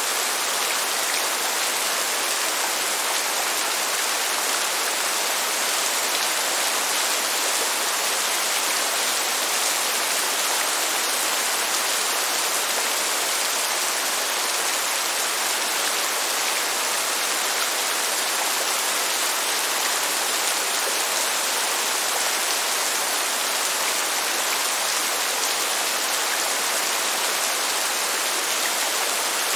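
Steady rain falling, an even hiss with no thunder or other single sounds.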